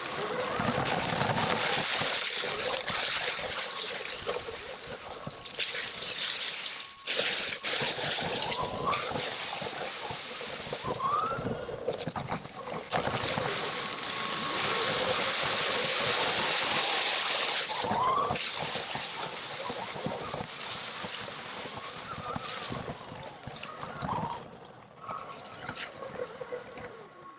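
Electric RC truck being driven over rough ground: a loud, uneven rushing noise from the tyres and chassis, with the motor whining up in short rises several times.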